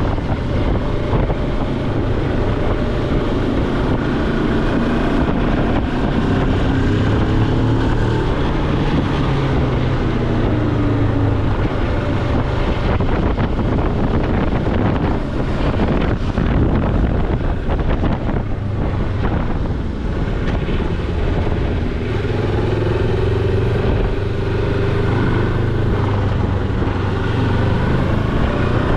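Moto Morini X-Cape motorcycle engine running under way, its pitch rising and falling gently with the throttle, with wind noise on the microphone.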